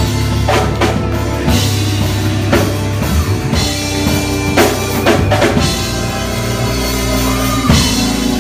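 Gospel praise band playing: a drum kit with bass drum and snare hits over held bass and chord tones.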